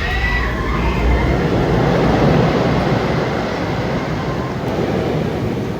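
Steel roller coaster train rumbling along its track, swelling to its loudest about two seconds in and then slowly fading.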